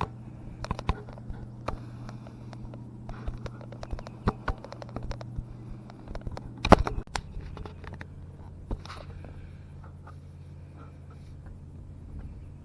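A vehicle engine idling steadily while a boat trailer is backed down the ramp, with many small clicks and rattles over it. A loud clunk about seven seconds in, after which the engine's note changes.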